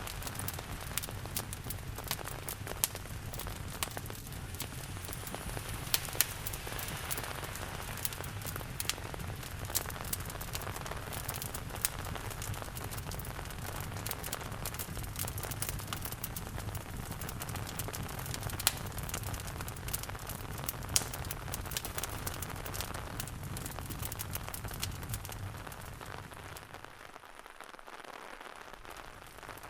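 Steady rain falling together with a crackling wood fire, sharp pops and snaps scattered irregularly over the rain's even hiss. A low rumble underneath drops away near the end.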